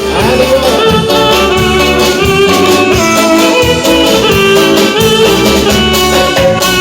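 Band music with horns playing over a steady beat.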